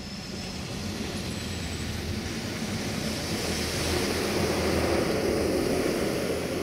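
A diesel train approaching, its steady engine hum and the rumble of wheels on rails growing louder and peaking about five seconds in.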